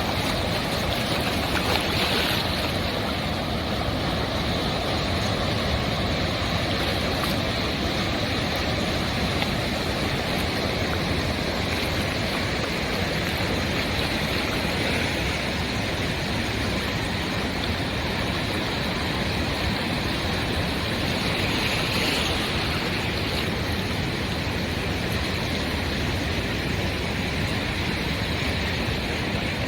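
Ocean surf breaking on a sandy beach: a steady wash of waves that swells slightly now and then.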